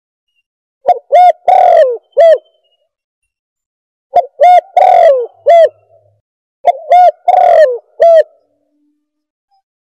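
Spotted dove (tekukur) cooing: three phrases, each of four or five coos, two to three seconds apart. In each phrase the long coo slides down at its end.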